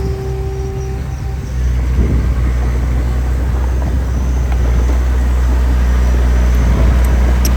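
Diesel engine of earthmoving machinery running steadily with a deep hum, a brief whine in the first second, and a slight rise in level about a second and a half in.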